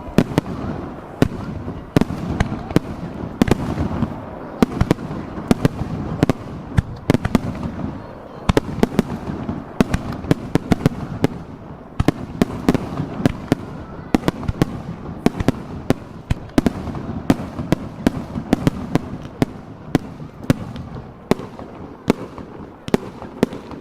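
Fireworks display heard from close range: many sharp bangs in quick, irregular succession over a continuous low rumble.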